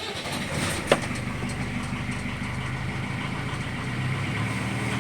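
Inboard diesel engine of a Hampton Safari Mk IV motor cruiser running steadily at idle just after a cold start with glow-plug preheating, with a single sharp knock about a second in.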